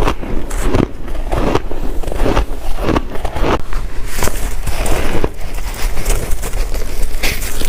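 Close-up crunching of ice being bitten and chewed: a quick, irregular run of crisp crunches, several a second.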